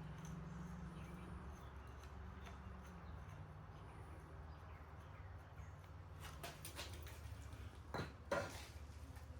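Steady low hum, with a few light clicks about six seconds in and two sharper knocks close together near the end.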